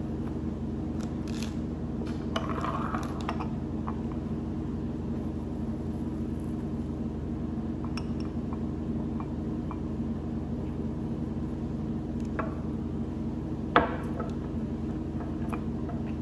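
Someone chewing a soft flour-tortilla burrito, with small mouth clicks and a brief rustle a few seconds in, over a steady low hum. One sharp knock comes near the end.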